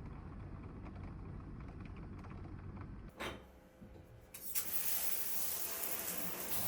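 Low room hum and a knock, then about four and a half seconds in a steady rush of running water starts.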